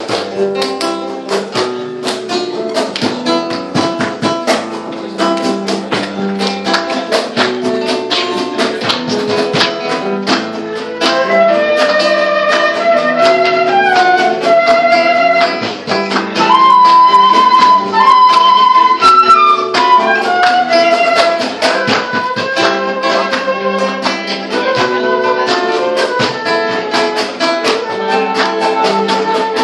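Acoustic guitar strumming the instrumental introduction of a Latin American song. From about eleven seconds in, a held melody line rides on top of it, loudest near the middle.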